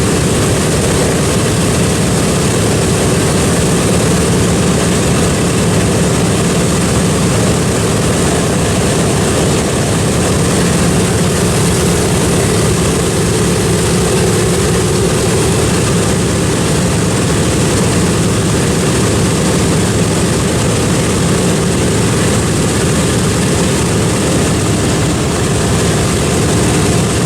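Piston engines of a World War II propeller warplane running on the ground: a loud, steady drone of engines and propellers that holds the same pitch throughout.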